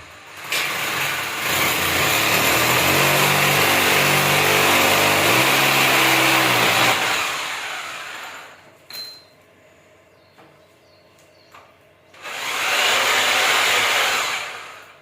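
Electric power tool running in two bursts: a long run of about seven seconds with its motor pitch shifting, then a shorter run of about two seconds near the end.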